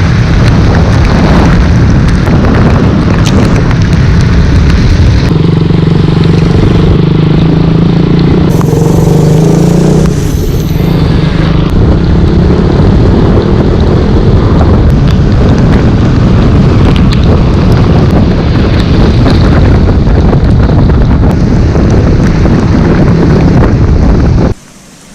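Heavy wind buffeting on the microphone of a riding motorcycle, with a steady engine drone underneath. It cuts off abruptly near the end.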